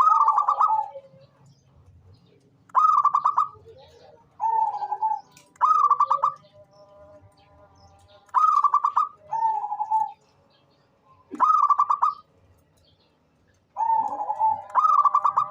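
Zebra dove (perkutut) cooing: short, loud phrases of quick stuttering notes, repeated about every one to three seconds.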